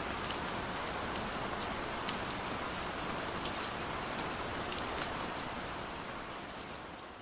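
Steady rain falling, with scattered sharp drop ticks over an even hiss; it starts to fade out near the end.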